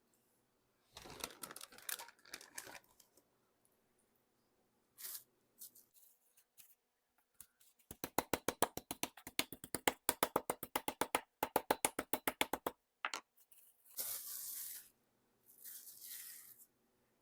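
Chicken breast being pounded flat on a board: a fast, even run of sharp strikes, about five a second, for several seconds, with a short break partway. Before and after it come rustling and crinkling sounds, with two longer tearing bursts near the end.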